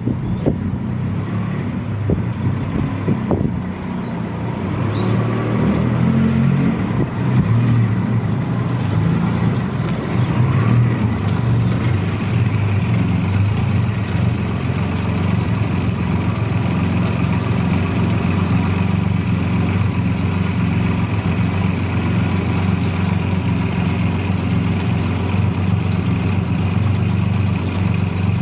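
1981 Yamaha XS750E's three-cylinder engine running, its pitch and level changing over the first several seconds before it settles into a steady idle. A couple of sharp knocks come right at the start.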